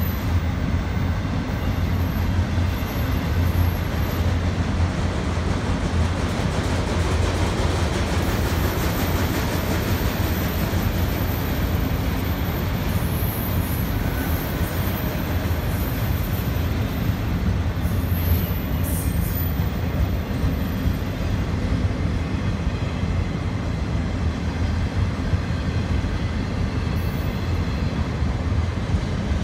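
A freight train of autorack cars rolling past. Its steel wheels give a steady rumble and rattle on the rails.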